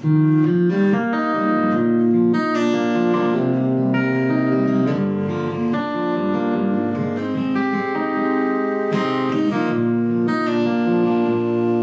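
Acoustic guitar playing the instrumental introduction of a song: picked and strummed chords ringing, changing every second or so.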